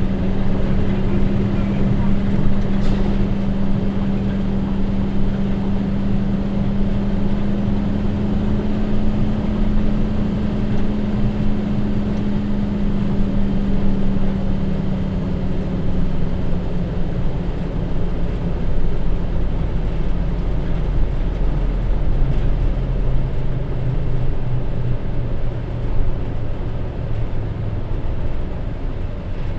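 Hino Rainbow II bus's J07E diesel engine running under way, a steady drone that drops to a lower rumble about halfway through.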